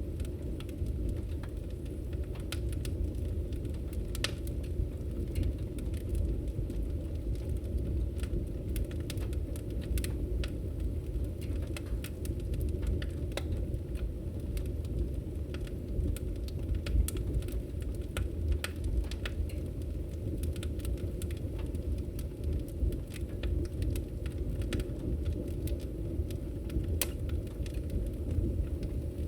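Wood fire crackling in a fireplace: a steady low rumble of flames under frequent irregular sharp pops and snaps.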